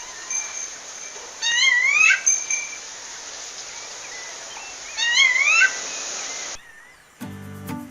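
Rufous-bellied thrush, a female calling to a male, giving two short rising call phrases about three and a half seconds apart over a steady background hiss. Near the end the field sound cuts off and music begins.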